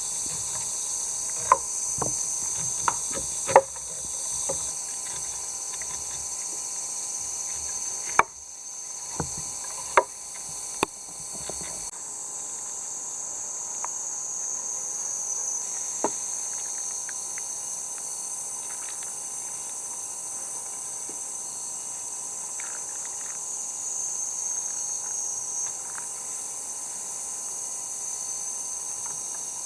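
Insects chirring in a steady high-pitched chorus. Scattered sharp knocks and clicks sound over it in roughly the first twelve seconds.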